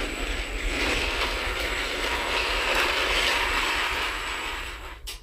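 Battery-powered motorised toy train running along plastic track, a steady gritty whirr of its small motor and gears. It stops with a click about five seconds in.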